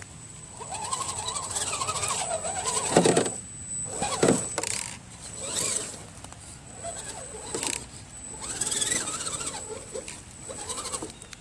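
Electric motor and geared drivetrain of a Redcat Gen7 radio-controlled crawler whining, the pitch rising and falling several times as the throttle is worked, with a thin steady high whine over it. Short crackles come in between as the truck pushes through wet plants and sticks.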